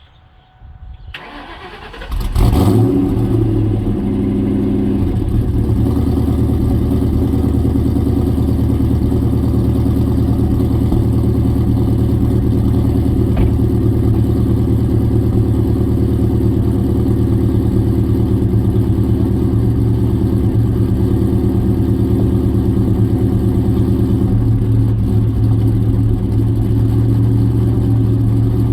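2003 Ford 4.6-litre two-valve V8 being started: the starter cranks for about a second, the engine catches about two seconds in with a brief rev, then settles into a steady idle. It is the startup that shows the engine's clacking, ticking noise.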